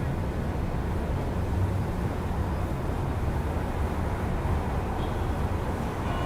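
Steady low rumble of city traffic heard through an open window, with no single vehicle standing out.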